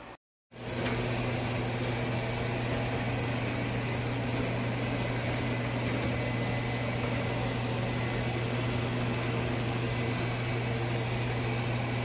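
Shark AI Ultra robot vacuum running, a steady motor hum with a strong low drone. It starts abruptly just under a second in.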